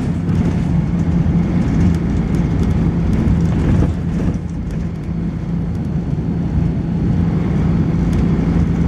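Volvo B10BLE single-deck bus engine running steadily under way, heard from on board, with a strong low steady tone over the road and body rumble. It eases off briefly about four seconds in, then picks up again.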